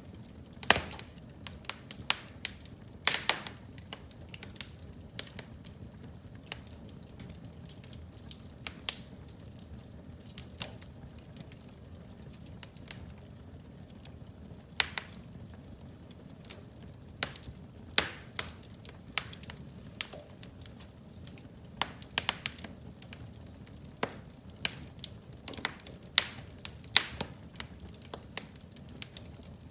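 Fire in a fireplace crackling: irregular sharp pops and snaps, a few much louder than the rest, over a steady low rumble.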